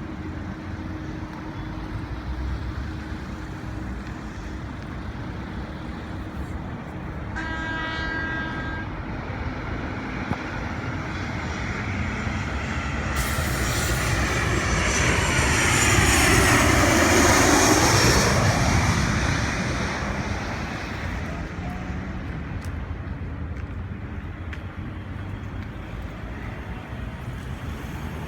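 Boeing 737-800 jet with CFM56-7B engines passing overhead on its landing approach. Its noise swells, is loudest about two-thirds of the way in, and carries a whine that falls in pitch as it goes by, then fades back to a low background rumble.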